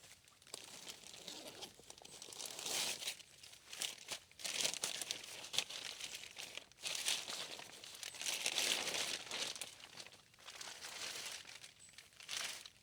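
Rustling and crinkling of something being handled and crumpled, coming in uneven swells of a second or two with short pauses between.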